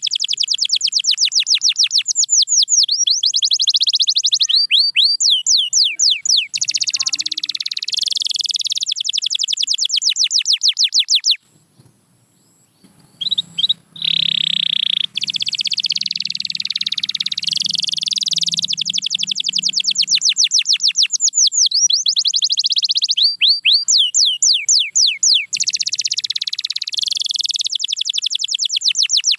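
Domestic canary singing in long runs of fast, repeated high trills, each a rapid series of sweeping notes. The song breaks off for about a second and a half a little before the middle, then picks up again.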